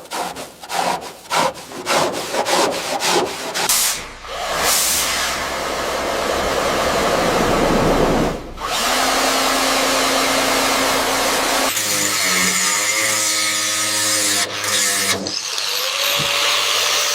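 Quick scraping hand strokes, about three a second, then a power tool running steadily. About twelve seconds in, a different humming machine sound takes over.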